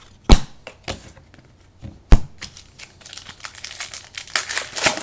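Trading card pack wrappers crinkling and tearing open, with a few sharp taps on the table first and then a dense run of crackling from about three seconds in.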